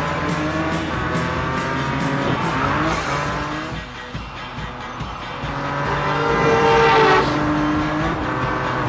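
Cartoon race car engine sound effects revving up in repeated rising whines, the loudest rev about seven seconds in, over background music with a steady beat.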